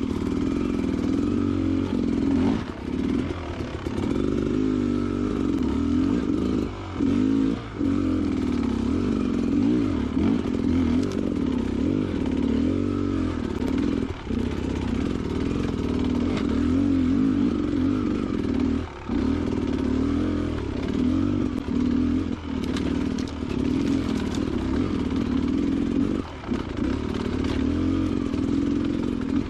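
A Beta Xtrainer 300's two-stroke engine running through a ride at varying throttle, its note dipping briefly several times. Rattling clatter from the bike over rocky ground.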